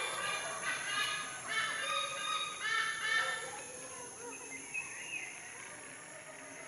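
A bird calling over and over in short, pitched calls rich in overtones, loudest in the first half and growing fainter and sparser after. A steady high whine runs underneath.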